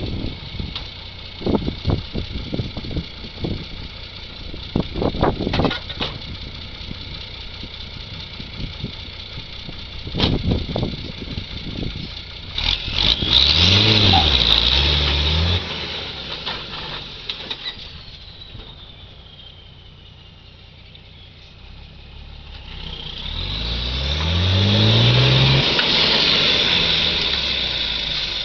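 A series of clanks and knocks, then a vehicle engine revving up and falling back about halfway through, and revving up again in a longer rise near the end.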